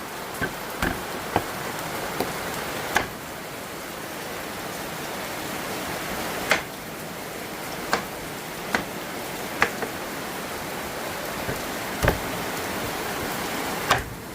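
Steady rain falling, with about a dozen sharp taps scattered irregularly through it.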